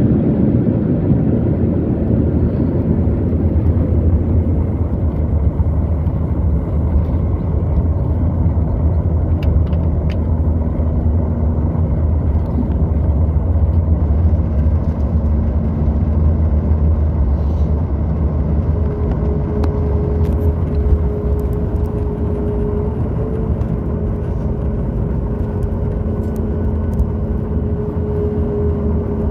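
Cabin noise inside a Boeing 737 MAX 8 slowing down on the runway after landing: a loud, deep rumble that eases off after about twenty seconds, while a steady engine hum comes up.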